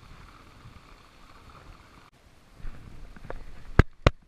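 Soft steady rain-and-water noise around a kayak with a few light knocks, then two sharp, loud knocks about a third of a second apart near the end.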